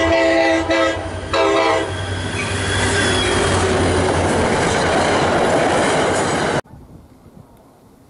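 Multi-note train horn sounding in three blasts, then a passing train's steady rumble and wheel noise that cuts off suddenly about six and a half seconds in, leaving faint wind noise.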